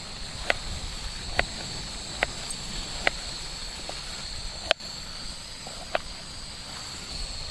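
Sharp clicks about once a second, like a spoon knocking a cooking pot as a dish is stirred, with one louder knock just under five seconds in, over a steady high-pitched hiss.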